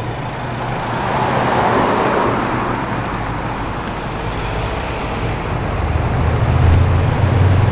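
Holden Torana SL/R 5000's V8 exhaust rumbling low and steady as it rolls in slowly. A deeper engine rumble swells up near the end as another car approaches.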